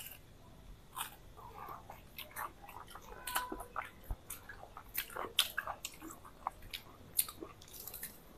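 Two people biting into and chewing crisp-fried egg chops, with irregular crunchy clicks and crackles of the fried crust.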